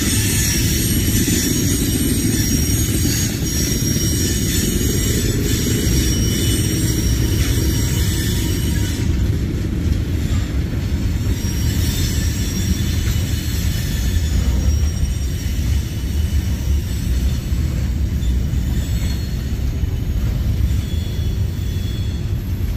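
Freight cars of a CSX manifest train rolling past: a steady low rumble of wheels on rail, with high-pitched wheel squeal that dies away about nine seconds in.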